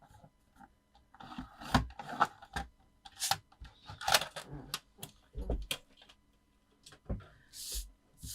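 Card stock being scored on a scoreboard and handled: short scraping strokes, rustles and taps in irregular bursts with quiet gaps between.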